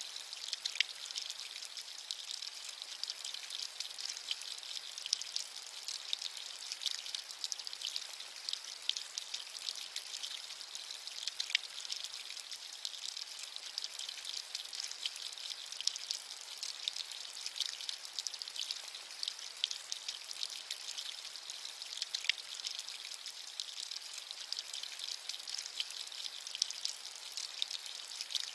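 Steady rain with many small drops pattering and an occasional louder drop tick, a high, hissy sound with little low end.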